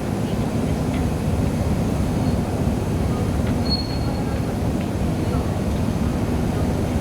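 Steady low rumble of the car ferry Oosado Maru's engines and machinery as it comes into port.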